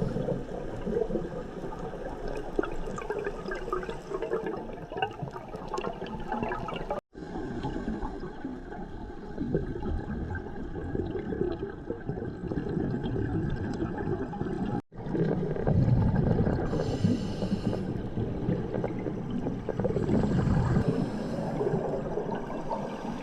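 Underwater ambient sound as picked up by a diving camera: steady rushing, gurgling water noise that cuts out suddenly twice.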